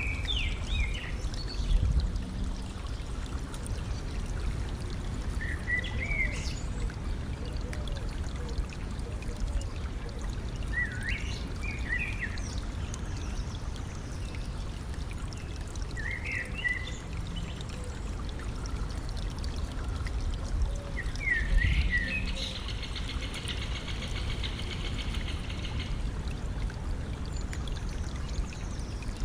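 A stream running steadily over stones, with a songbird calling short phrases about every five seconds and giving a buzzy trill for a few seconds past the middle. Twice the water noise swells briefly in a low rumble.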